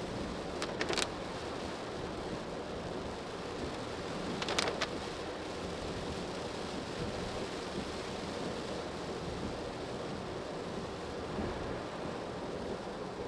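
Steady road and tyre noise heard inside a car's cabin on a wet road in the rain. Two short bursts of sharp clicks come through, about a second in and again about four and a half seconds in.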